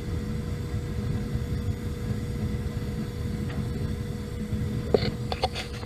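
Natural-gas water heater burner running after relighting, a steady low rumble with a faint even hum over it; a few sharp clicks about five seconds in.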